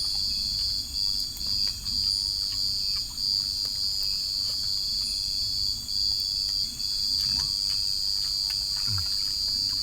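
A chorus of forest insects, crickets among them, keeps up a steady high-pitched trill with a few short breaks.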